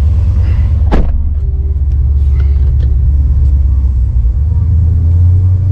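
Jeep Grand Cherokee SRT's 6.4 HEMI V8, fitted with long-tube headers and an aftermarket exhaust, running with a loud, steady low drone, heard from inside the cabin. A single sharp thump about a second in.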